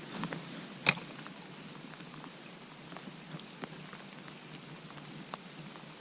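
Light rain falling, with scattered faint drop ticks over a soft hiss, and one sharp click about a second in.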